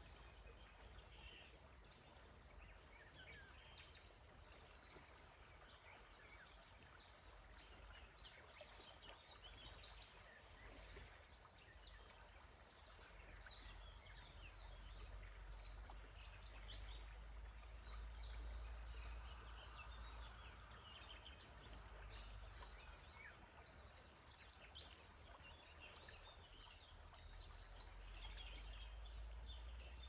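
Faint birdsong from several small birds: many short chirps and trills, scattered throughout, over a low steady rumble of outdoor background and river water.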